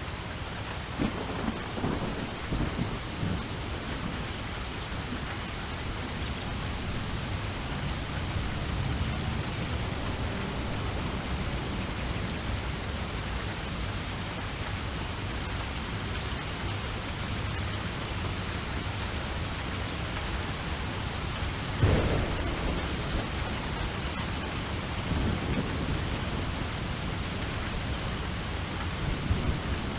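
Steady rain falling, with rolls of thunder: low rumbles a second or two in, a sharp thunderclap about 22 seconds in followed by rumbling, and more rumbling near the end.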